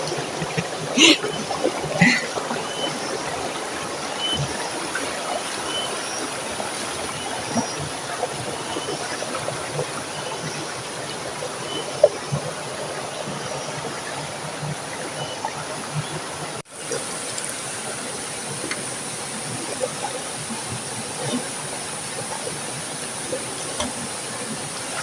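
River water flowing steadily over stones, an even rushing sound.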